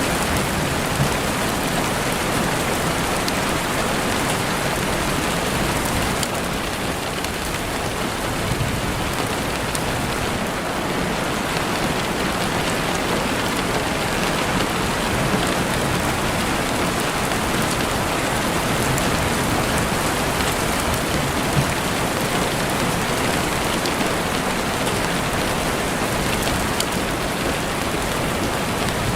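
Heavy rain falling steadily on a window, a dense, even hiss of drops with a few sharper individual taps.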